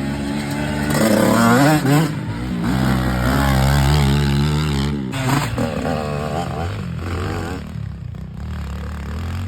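Dirt bike engine running and revving, its pitch rising and falling, loudest in the first half and easing off after about five seconds.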